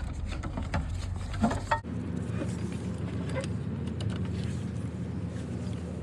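Steady low rumble of a vehicle engine running in the background, with a few light clicks and knocks from hand work on the belt and pulleys in the first two seconds. The background sound changes abruptly about two seconds in.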